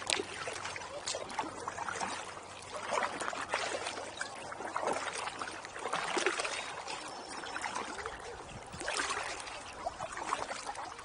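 Kayak paddling: water trickling and dripping off the paddle blades, with a louder swell of splashing about every three seconds as the strokes go in.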